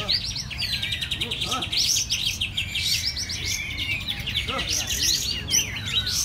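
Several caged songbirds singing at once, as at a songbird contest: a fast, even rattling trill lasting about four seconds, over overlapping chirps and whistled phrases.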